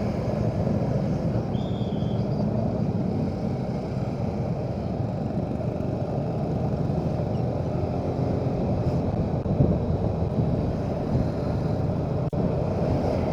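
Motorcycle engine running steadily at road speed, with wind and road noise, heard from the rider's position. A single sharp click near the end.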